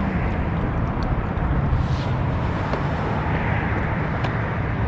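Steady rushing noise of a pedal-drive kayak under way on open water: wind buffeting the microphone and water moving along the hull, with a few faint ticks.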